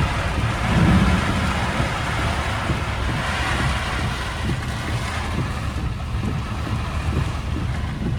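Steady outdoor rushing noise with the rough low rumble of wind buffeting the microphone.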